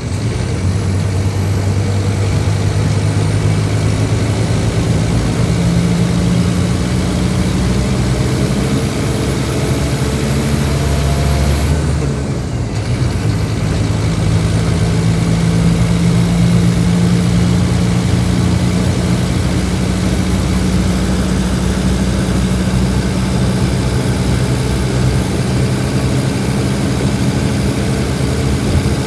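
Scania K310IB bus's diesel engine running steadily with a thin high whine over it. About twelve seconds in, the engine note and the whine briefly drop, then pick up again.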